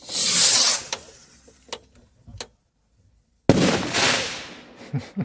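Fireworks going off in two loud bursts: the first swells and fades within about a second, and the second starts suddenly about three and a half seconds in and dies away over about a second and a half.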